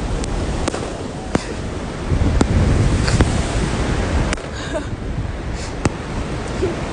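New Year fireworks going off in a string of sharp bangs, about eight spread over several seconds, over a steady rush of ocean surf and wind.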